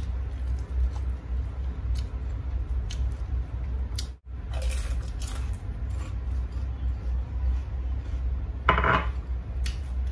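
Close-up eating sounds: crispy fried chicken-skin chicharon being chewed and crunched, with scattered small clicks and one louder crunch near the end, over a steady low hum. The sound cuts out briefly about four seconds in.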